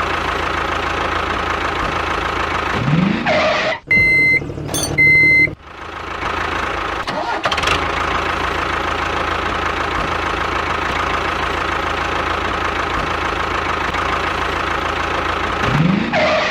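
Engine running steadily, interrupted about four seconds in by two short electronic beeps, then running on.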